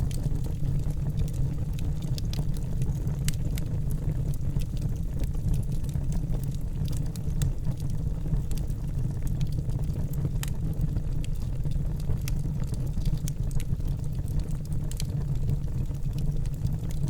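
Fire burning in a house fireplace: a steady low rush of flame with irregular sharp crackles and pops scattered throughout.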